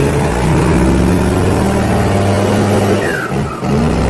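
Engine sound of a toy dumper truck: a steady low running note that steps up and down in pitch like revving, with a short falling whine about three seconds in.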